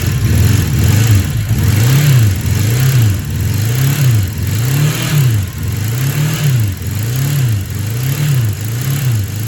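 Honda CB650 Custom's air-cooled inline-four engine being revved repeatedly, the revs rising and falling about once a second, running on lightly cleaned carburettors.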